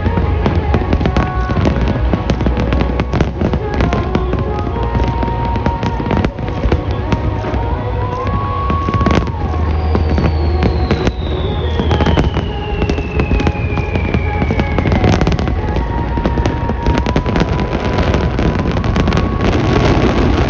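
A fireworks display with many sharp bangs and crackles in close succession over the show's music. Through the middle, a single tone slides slowly downward in pitch over several seconds.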